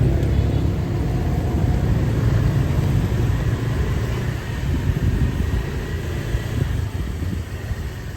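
Road traffic rumbling by, a vehicle engine close at the start and easing off slightly toward the end.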